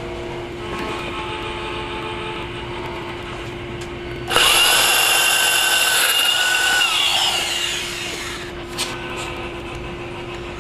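Power drill running with a porcelain tile drill bit. About four seconds in, the bit bites into hard tile with a sudden loud, high-pitched screech that holds for about three seconds, then slides down in pitch and fades, leaving the drill's steady hum.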